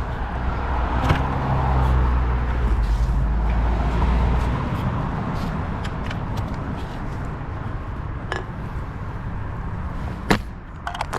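A car passing on the road, its rumble swelling over the first two seconds and fading away by about four and a half seconds in. A few sharp clicks and knocks follow, the loudest about ten seconds in.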